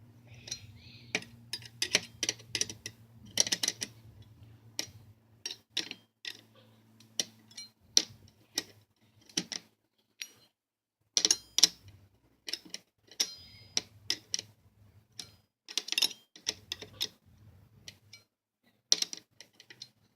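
Irregular sharp clicks and scrapes of a hand tool working at a screw in a box fan's plastic housing, some in quick clusters, as the screw is slowly turned out.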